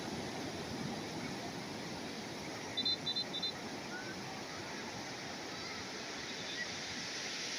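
Calm sea waves washing in, a steady rush of surf. About three seconds in comes a quick run of four short, high chirps.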